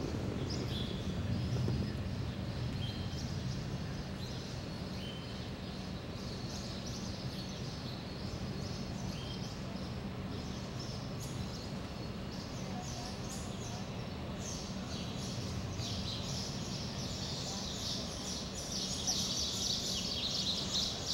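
Steady background hum with small birds chirping every few seconds. The bird chatter thickens and grows louder in the last few seconds.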